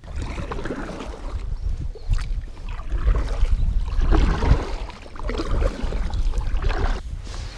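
Wind rumbling on the microphone aboard a small fishing kayak, with shifting water and handling noise from the boat and the angler's movements.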